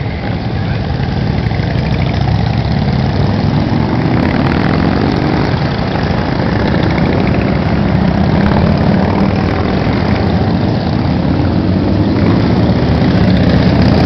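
Many motorcycles riding past in a parade, their engines running together in one loud, continuous rumble, with single bikes rising and falling in pitch as they pass; a little louder near the end.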